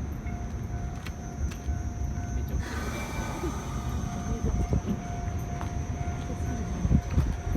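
Narrow-gauge train of the Asunarou Yokkaichi Railway running at a station, a steady low rumble with a thin steady tone over it. A broad hiss comes up about three seconds in, and a few louder knocks come near the end.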